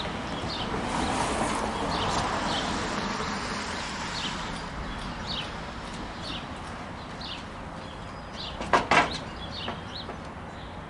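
A bird chirping over and over, about once a second, over a broad rushing background noise that swells in the first few seconds and then eases. About nine seconds in come two sharp knocks close together, the loudest sounds.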